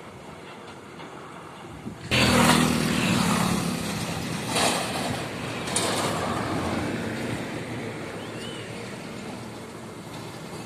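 A truck passing close by on the road, its engine hum and tyre noise starting abruptly about two seconds in and fading slowly, with two short sharp noises around the middle.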